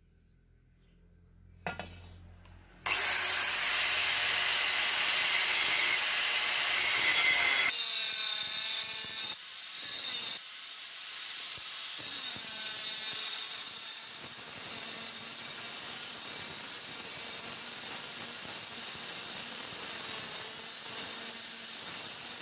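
A power tool cutting into the steel of a chainsaw bar, starting suddenly about three seconds in with a loud continuous noise, then carrying on more quietly with a wavering pitch from about eight seconds in.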